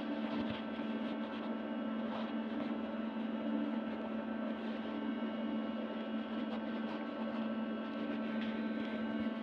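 A steady hum of several held tones, strongest low down, unchanging, with a few faint clicks.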